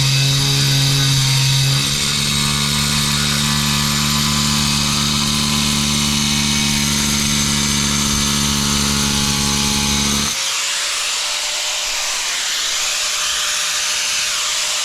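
Angle grinder with a new diamond blade cutting through porcelain tile: a steady motor whine with high grinding noise, the blade cutting cleanly straight out of the packet. About ten seconds in the low motor hum stops abruptly, leaving a steady hiss.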